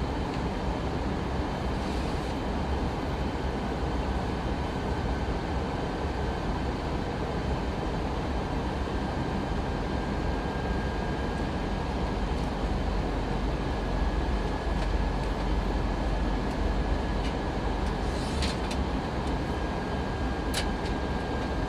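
Steady cabin noise of an Airbus A319 airliner in flight, heard from inside the cabin: a constant rush of engines and airflow with a deep rumble underneath and a faint thin steady whine, during the descent toward landing. A few faint clicks sound near the end.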